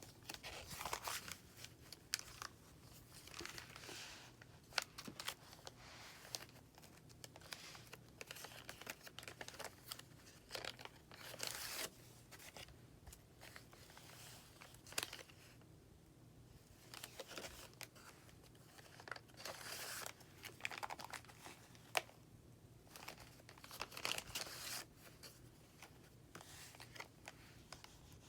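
Paper pages and tucked postcards of a handmade junk journal being turned and handled: irregular rustling and crinkling with light ticks and taps.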